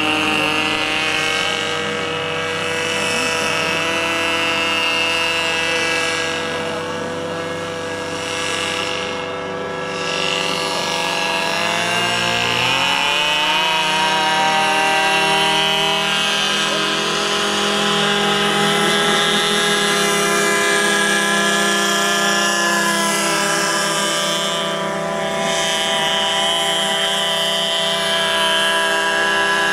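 RC airboat's in-line model engine driving its air propeller, running steadily. About twelve seconds in the pitch rises as the throttle opens, then holds at the higher speed.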